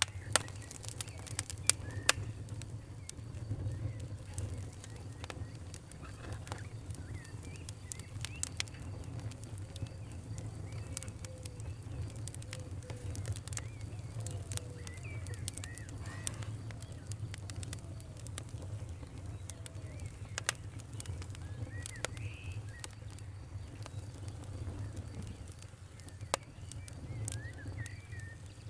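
Wood fire crackling, with irregular sharp pops over a steady low rumble; the loudest pops come in the first couple of seconds and again about 20 seconds in. Faint short chirping calls recur through it.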